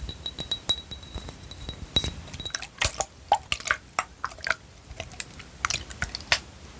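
Close-miked ASMR tapping and clattering of small hard objects: rapid, irregular taps and clicks, with a faint high ringing tone during the first two and a half seconds.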